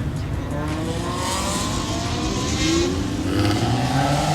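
A car engine revving, its pitch rising and falling several times.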